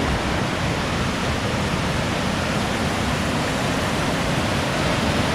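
Rushing water, a river or waterfall, making a steady, even roar.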